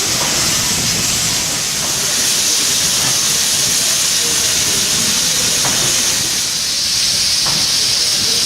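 Soviet L-class steam locomotive L-3055 letting off steam with a loud, steady hiss.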